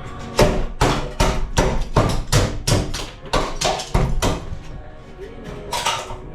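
Hammer blows knocking out the bus's thin acrylic ceiling panels: about ten sharp strikes in quick, even succession, then a pause and one more near the end, over background music.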